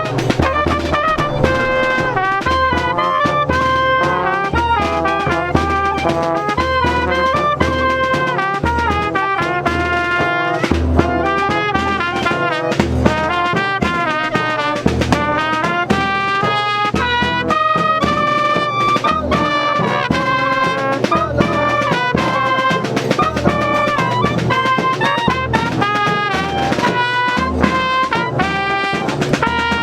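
Brass band playing a melody, trumpets and trombones over a steady drum beat.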